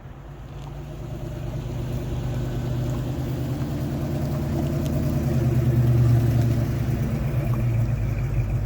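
A car's engine running at low speed as it drives in, a steady low rumble growing louder and loudest about six seconds in.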